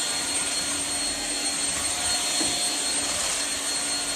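Shark Rocket Ultra-Light corded stick vacuum (HV302) running steadily while vacuuming up spilled oatmeal and sugar: a continuous rush of suction air with a steady high motor whine.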